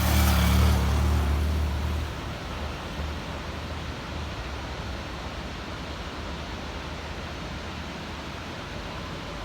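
Steady rushing of Ravana Waterfall, an even hiss of falling water. A louder low rumble sits over it for the first two seconds, then fades.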